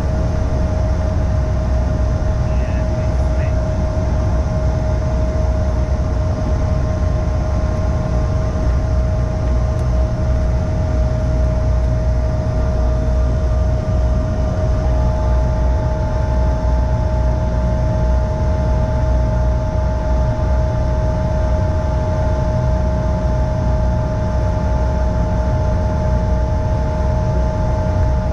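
Cabin noise inside a CRJ-550 regional jet: a steady low rumble from its rear-mounted GE CF34 turbofans with a steady whine over it. A second, higher whine joins about halfway through.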